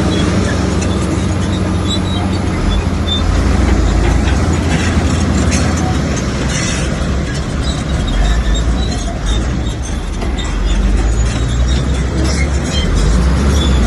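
Komatsu crawler bulldozer's diesel engine running steadily under load, with the metal tracks clanking and squealing.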